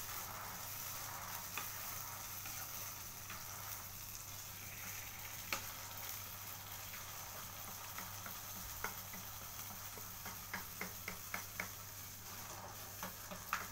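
Sambal geprek chili paste sizzling and bubbling in a pan on the stove while it is stirred with a spatula, cooking down so that its water content drops. A quick run of sharp clicks comes about ten to twelve seconds in.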